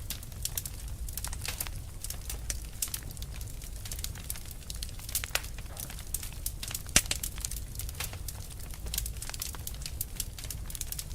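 Fire burning with irregular sharp crackles and pops over a low steady rumble; the loudest pop comes about two-thirds of the way through.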